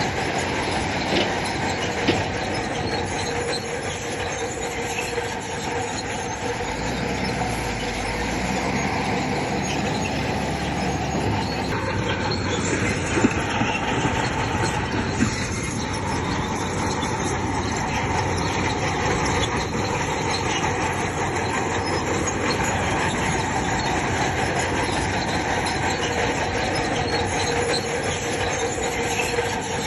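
Crawler bulldozer working stone fill, its engine running under load while its steel tracks squeal and clank, with a couple of sharp knocks.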